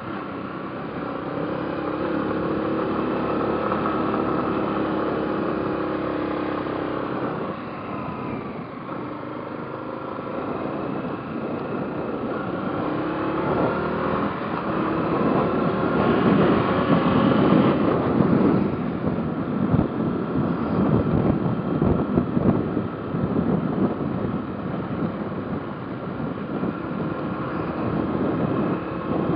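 Motorcycle engine running under way, its note rising and falling with throttle and gear changes. Wind rushes on the microphone, loudest around the middle.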